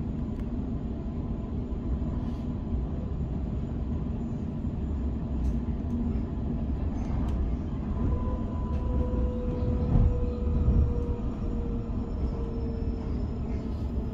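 Sydney Trains double-deck electric train heard from inside the carriage: a steady low rumble of wheels on the track. From about halfway through, a faint whine slowly falls in pitch as the train slows toward a station.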